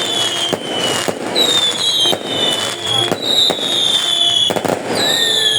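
Fireworks going off: a run of sharp bangs and crackles, with many high whistles overlapping, each sliding slowly down in pitch.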